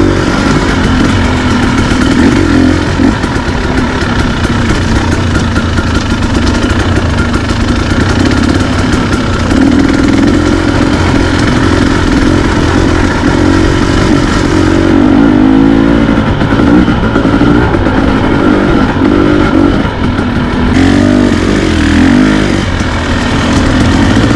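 Dirt bike engine running while being ridden, its pitch rising and falling repeatedly with the throttle.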